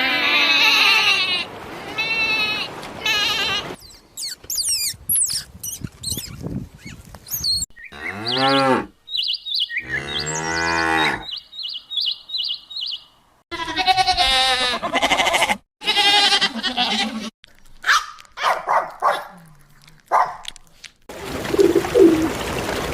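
A string of short farm-animal clips cut together: cows mooing in long, low calls, with other higher-pitched animal calls between them. A run of short, high bird chirps sits behind one of the moos.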